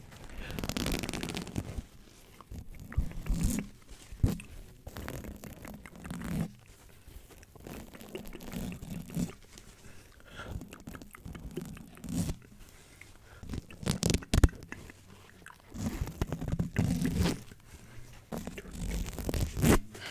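Dry mouth sounds made right on a microphone for ASMR: irregular crackly, smacking bursts of about a second each, with a few sharp clicks between them.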